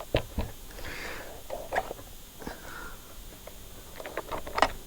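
Scattered clicks and taps of brushcutter parts and tools being handled, with a denser run of clicks near the end, and a couple of soft sniffs.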